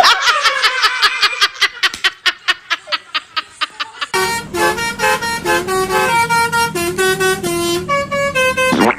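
A rapid run of clicks for about four seconds, then a telolet bus horn playing a quick tune of short stepped notes.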